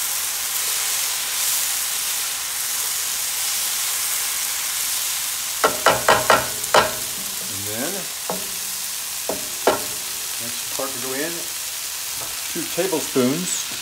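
Chicken, mushrooms and vegetables sizzling loudly in a hot non-stick skillet, a steady frying hiss, while a spatula stirs them. The spatula knocks sharply against the pan several times in quick succession about six seconds in, with a few single clacks later.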